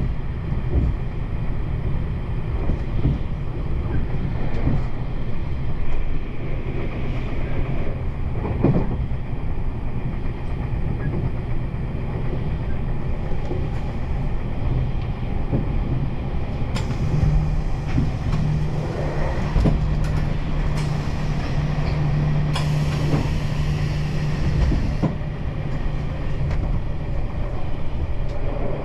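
Meitetsu 1200 series electric train running, heard from inside a carriage: a steady rumble with the wheels clicking over rail joints. A low hum joins in a little past the middle and lasts for several seconds, along with a hiss.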